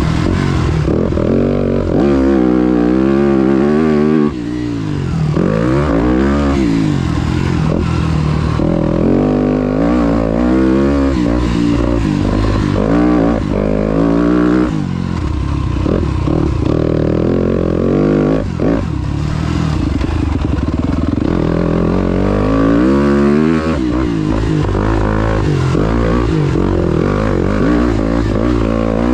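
Motocross dirt bike engine ridden hard around a track, its pitch climbing and falling over and over as the throttle is opened and shut through the turns and jumps.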